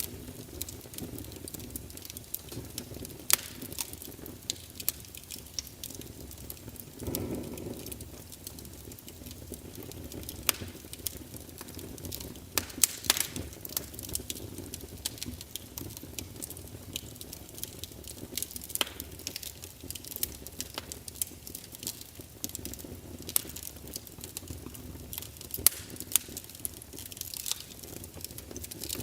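Wood fire crackling: irregular sharp pops and snaps over a low steady rumble, with a brief louder swell about seven seconds in.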